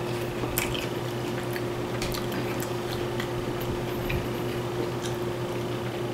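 A person chewing a mouthful of chicken burrito, with small wet mouth clicks and smacks, over a steady low hum.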